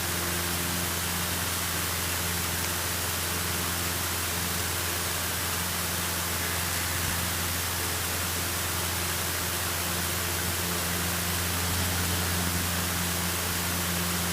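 Cessna 152's four-cylinder Lycoming engine running steadily in the climb after takeoff, heard as a low drone under an even hiss.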